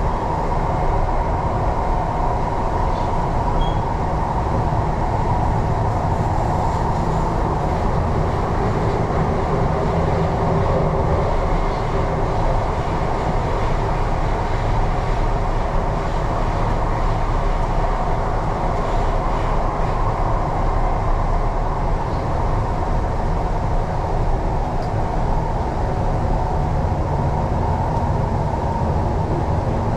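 MTR East Rail line R-Train electric multiple unit running steadily: a continuous, even rumble with a constant hum.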